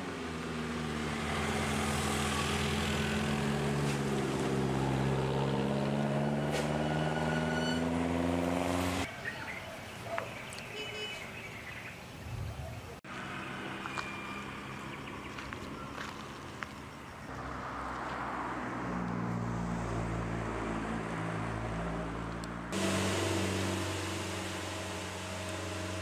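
An engine running steadily, its pitch drifting slowly, changing abruptly several times as the footage cuts between clips.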